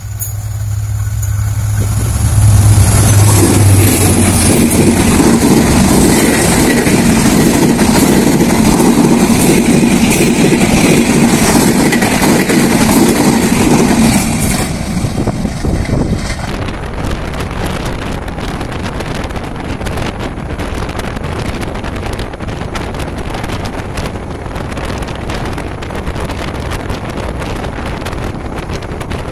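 Train passing at speed. A low engine hum comes first, then a loud rush of wheels on rails for about twelve seconds. Near the middle it drops to a quieter, steady rushing noise.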